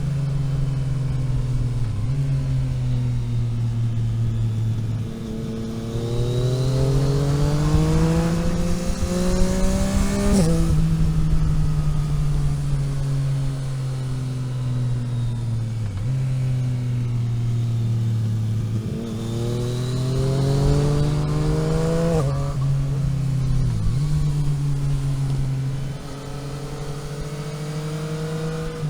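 Vehicle engine heard from on board while driving a winding road. The revs climb through the gears with short dips at each shift, rise to a peak about ten seconds in and again around twenty-two seconds, then fall away sharply as the throttle is lifted.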